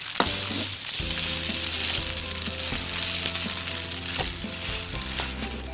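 Fried rice sizzling in a hot pan while a metal spatula stirs and scrapes through it, with a sharp clank of the spatula against the pan a moment in and a few lighter knocks after. Background music plays underneath.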